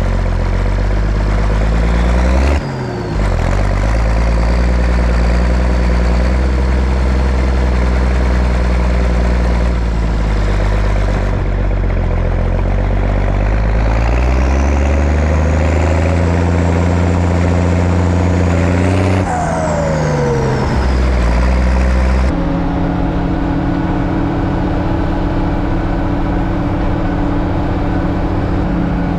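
Zetor ZTS 16145 tractor's turbocharged diesel engine running hard under the heavy pull of a deep cultivator. A high turbo whistle rises in the middle and falls away when the engine note drops about two-thirds of the way through.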